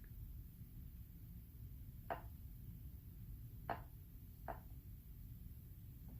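Three faint clicks or taps as paints are handled and mixed on a palette, about two, three and a half and four and a half seconds in, over a low steady hum.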